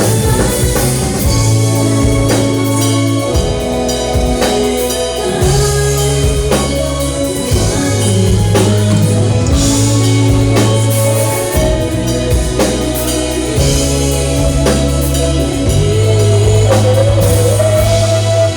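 Live rock band playing: drum kit beating steadily under long sustained bass notes and guitar, with a wavering melody line coming in near the end.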